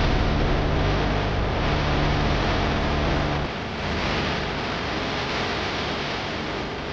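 Steady rushing noise of wind buffeting the microphone of a camera carried on a run, with a low rumble that eases about halfway through.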